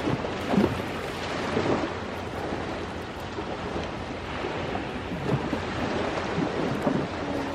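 Ocean surf washing steadily, with a wood fire burning over it: short crackles and a few louder pops.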